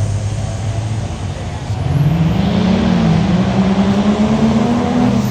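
Truck engine running low, then revving up about two seconds in and holding the higher revs.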